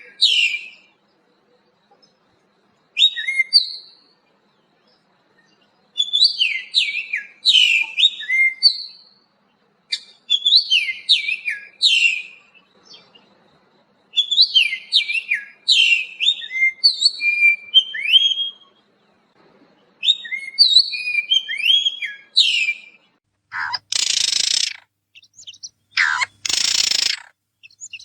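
Small songbird singing in phrases of quick high chirps and whistled slurs, each phrase a second to a few seconds long, with short pauses between. Near the end come two louder harsh, hissing bursts of about a second each.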